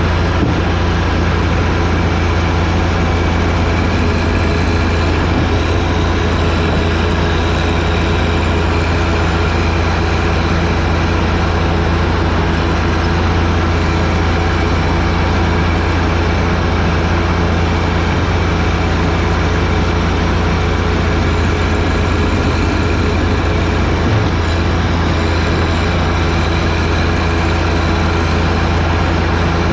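John Deere 1025R sub-compact tractor's three-cylinder diesel engine running steadily at a constant speed, with a strong low hum.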